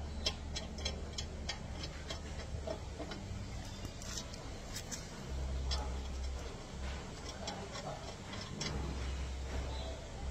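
Irregular sharp metallic clicks and ticks of hand tools being worked, several close together at times, over a low steady hum.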